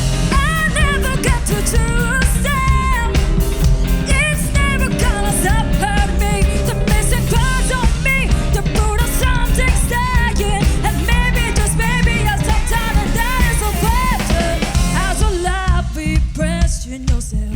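Teenage rock band playing live, with drums and bass under a melodic lead line that bends in pitch. The playing thins out near the end, just before the verse.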